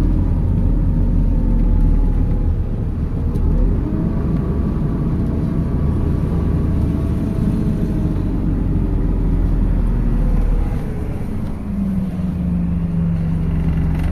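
MAZ 206 city bus heard from on board while driving: engine and drivetrain running, with a whine that rises and falls in pitch. About 11 seconds in the sound drops and settles into a steady, even hum.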